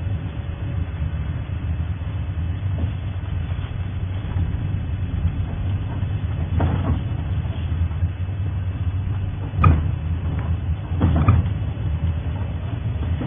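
Safari game-drive vehicle's engine running with a steady low rumble, with a sharp knock about ten seconds in and a rougher clatter about a second later.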